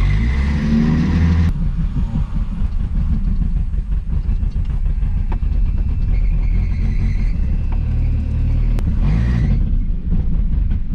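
1981 AMC Spirit's four-cylinder engine running, revved up in the first second or so and again about nine seconds in.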